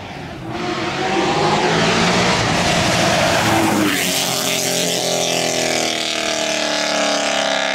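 A performance car accelerating hard as it pulls away, its engine revving up through one gear. The pitch drops at a gear change about four seconds in, then climbs again more slowly.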